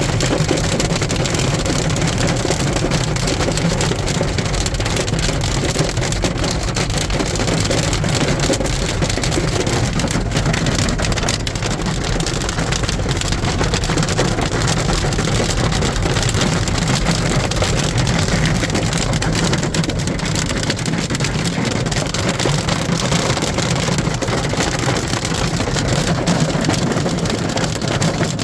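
Hail and heavy rain pelting down in a dense, steady clatter of impacts.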